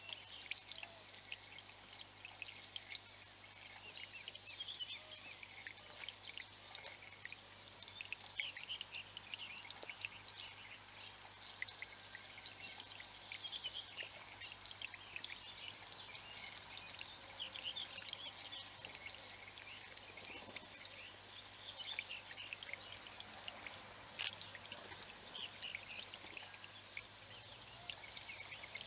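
Several small songbirds chirping and singing continuously, many short quick calls overlapping one another.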